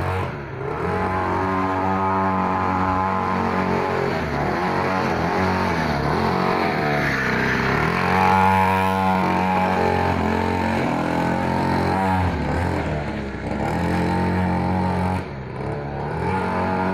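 Small mini trail motorbike engine running under throttle, its pitch rising and falling repeatedly as the revs change.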